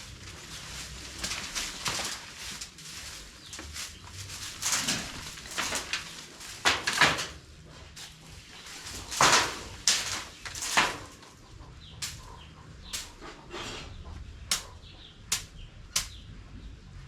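Scraping and brushing strokes from cleaning out a chicken space, heaviest in the middle, then several short sharp clicks about once a second near the end.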